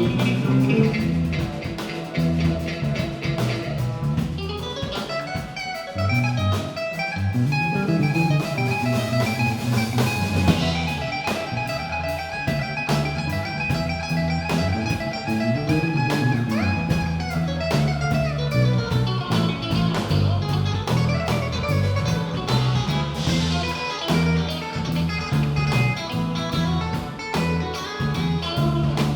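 Live band playing an instrumental passage: guitar lines over bass and a drum kit keeping a steady beat.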